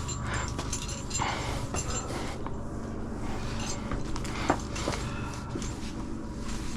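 A climber's hard, panting breathing with scrapes, rustles and light clicks of body and gear against sandstone rock, one sharper click about four and a half seconds in.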